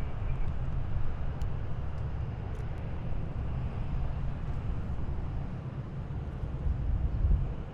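Heavy military vehicles driving past, a steady deep rumble of engines and tyres that swells near the end.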